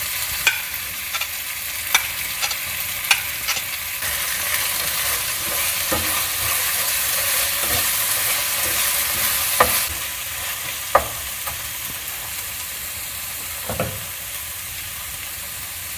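Onions, tomato and ginger-garlic paste frying and sizzling in hot oil in a pan while being stirred, with a handful of sharp clicks of the stirring utensil against the pan. The sizzle is louder in the middle and eases after about ten seconds.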